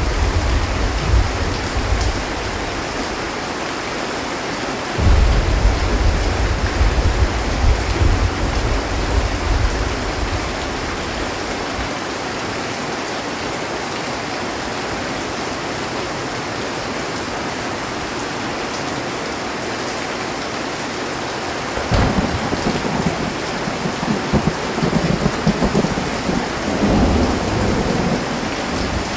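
Heavy rain drumming steadily on a metal roof, with thunder rolling at the start and again about five seconds in. About 22 seconds in a sharp thunderclap cracks, followed by several seconds of rumbling.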